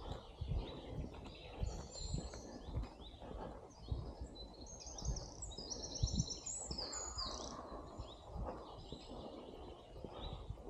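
Several songbirds singing outdoors, with a run of rapid repeated notes about halfway through, over a steady outdoor rumble and soft low thuds.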